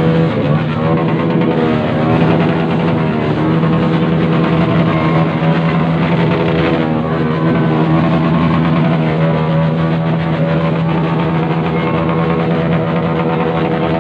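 Several motorcycles with loud exhausts being revved at once, their engine notes rising and falling over one another while one engine holds a steady high-revving drone.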